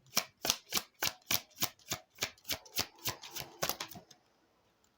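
A deck of tarot cards being shuffled by hand: even card slaps about three and a half a second, then a quicker flurry of cards about three seconds in that stops about a second before the end.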